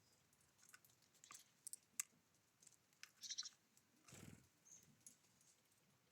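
Faint sharp clicks and taps from small wild birds at a feeder. A brief high chirp comes near the middle, and a soft low thump follows about four seconds in.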